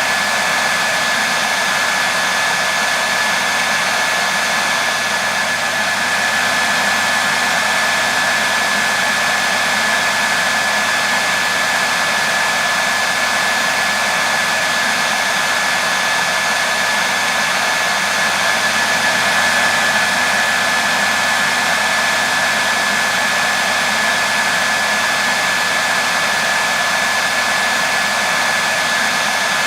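Hair dryer running steadily, an even rushing blow of air and fan noise with a thin steady whine in it, unchanging throughout.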